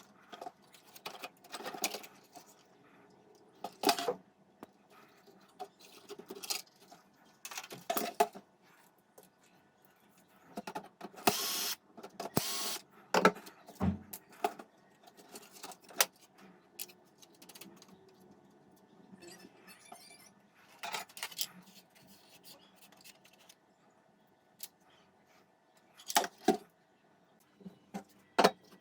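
Irregular clicks, knocks and rattles of parts being handled while the stereo is worked on, with two short hissing bursts a little before the middle.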